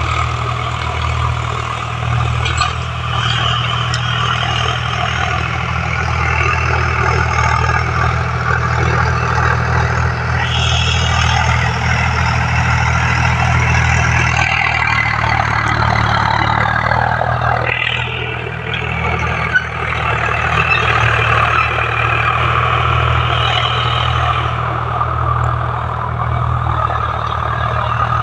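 Tractor diesel engine running steadily, with a higher note that slides down about halfway through.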